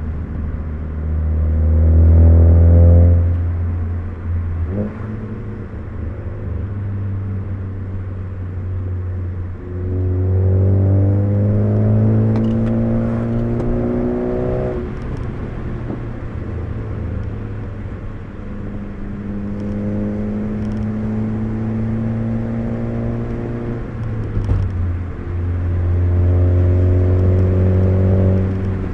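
Ford Focus ST's turbocharged four-cylinder engine heard from inside the cabin, pulling through four hard accelerations. Each time the engine note climbs in pitch and loudness, then falls away as the throttle closes, with steady road and tyre noise underneath.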